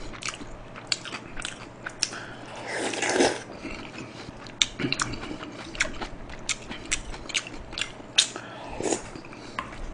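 Close-miked eating sounds: chewing with many sharp, wet mouth clicks, and a louder, longer mouth sound about three seconds in.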